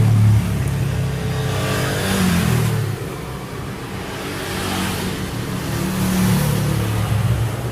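Engine running, its speed rising and easing off, with louder stretches about two seconds in and again near the end.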